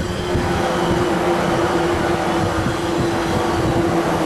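JR East 185 series electric train passing at speed close by: a steady rumble of wheels on rail with a level hum running through it.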